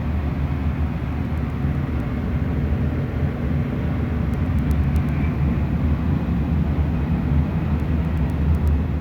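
Diesel freight locomotive engine running with a steady low rumble.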